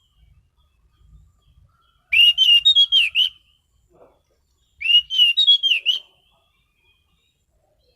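Anis cendana (orange-sided thrush) singing: two quick warbled phrases of rapid, pitch-sliding notes, each about a second long, the second starting about two and a half seconds after the first.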